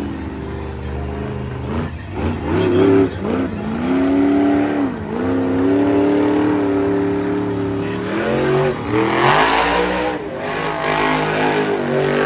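Monster truck engine revving hard, its pitch dropping and climbing again several times. A broad rush of noise rises over it about nine seconds in.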